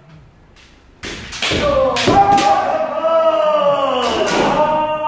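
Kendo practice: sudden sharp knocks of bamboo shinai striking armour and stamping footwork start about a second in, with long, loud kiai shouts drawn out over the strikes.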